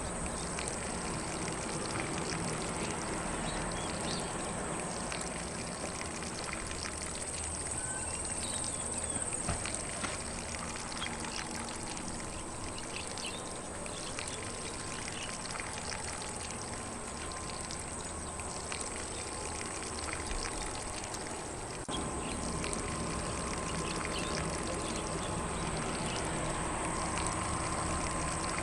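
Steady hiss and patter of water spraying from a lawn sprinkler onto grass, with faint bird chirps in the background.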